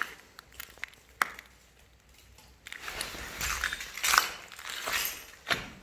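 Crunching and snapping of dry wood and debris being handled: a few sharp snaps in the first second or so, then about three seconds of dense crunching and crackling.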